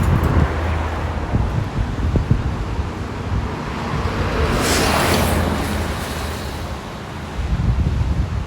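Wind rumbling on the microphone, with a rush of surf that swells and fades about five seconds in.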